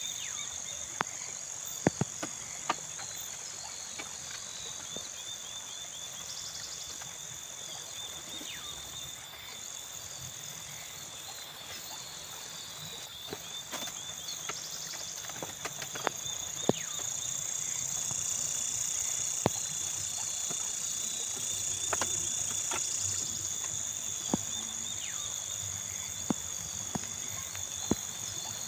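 Insects chirring steadily in two high-pitched bands, the upper one growing louder for a few seconds mid-way. Scattered single sharp clicks and knocks, about a dozen in all.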